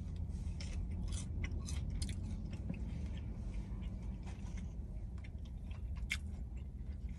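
Close-up mouth sounds of someone chewing a bite of cheeseburger: scattered wet smacks and clicks over a steady low hum.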